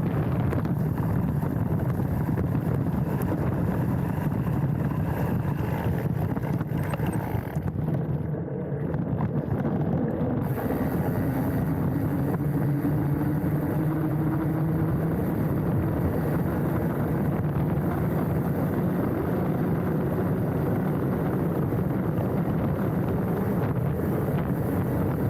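Specialized Stumpjumper mountain bike riding down a dirt trail: steady wind rush over the handlebar-mounted camera's microphone, with tyre and trail rumble. It eases briefly about eight seconds in.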